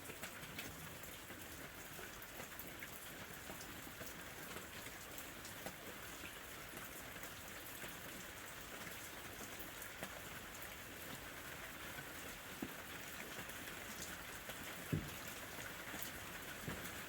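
Steady rain falling, an even hiss of rain with a dense patter of raindrops and scattered sharper drips; one louder, deeper drop lands near the end.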